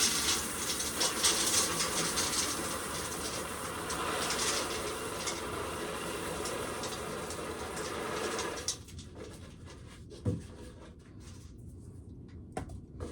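Dry shelled corn kernels pouring and rattling as a steady hiss of grain for about nine seconds, then stopping. A few light clicks and a single knock follow about ten seconds in.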